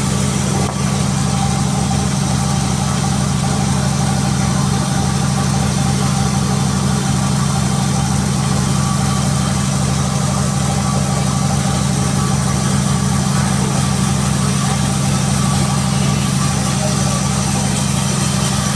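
Sawmill machinery's engine running at a steady speed, a constant low drone that does not change.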